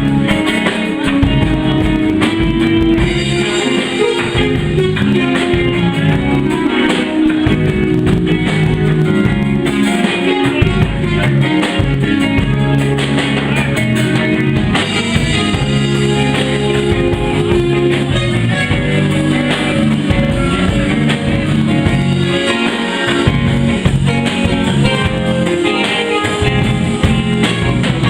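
Live band playing blues-style music, with electric guitar over bass and drums.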